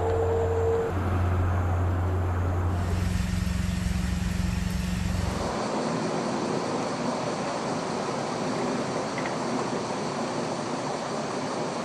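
A steady low motor hum with a noisy layer over it. About five and a half seconds in, the sound cuts abruptly to a steady, even rushing noise.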